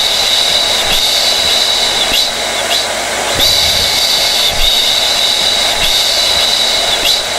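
Hair dryer running steadily: a constant rush of air with a high whine that fades in and out every second or so, dipping briefly in pitch at each break.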